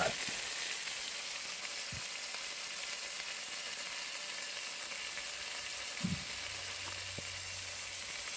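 Grated ginger frying in hot oil and burnt sugar in a pot, a steady sizzle; the water from the ginger makes it pop. A single soft knock about two seconds in.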